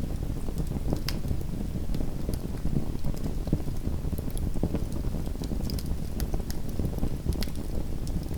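Small wood fire burning in a fireplace: a steady low rumble of flames with scattered sharp crackles and pops.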